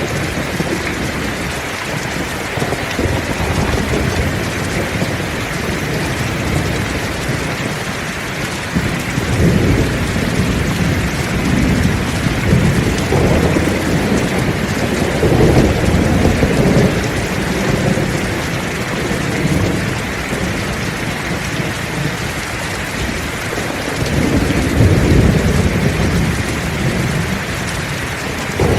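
Heavy rain falling steadily, with low rolls of thunder swelling up and fading several times.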